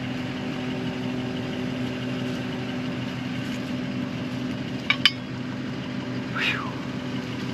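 An engine idling steadily, with two sharp metallic clinks about five seconds in and a short falling squeak a moment later.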